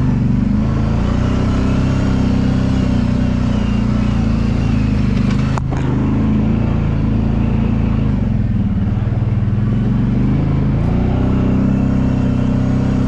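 Kawasaki Brute Force 750 ATV's V-twin engine running steadily. Its revs drop about eight seconds in and climb back about two seconds later, and a single sharp knock comes about halfway through.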